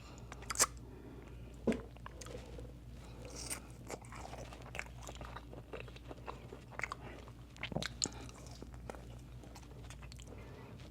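A person biting and chewing crunchy food, with loud crunches about half a second in, near two seconds and around eight seconds, and quieter chewing in between.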